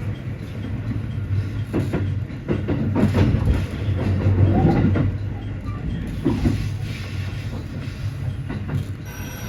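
JR West Special Rapid electric train running on the line: a steady low rumble with the wheels clicking irregularly over rail joints.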